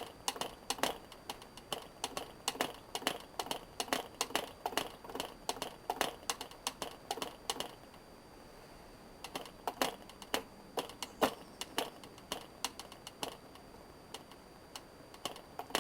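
Propeller of a Frog 80 0.8 cc model diesel engine being flicked over by hand, giving a run of quick irregular clicks and snaps with a short pause about eight seconds in. The engine does not fire because it is flooded with too much fuel.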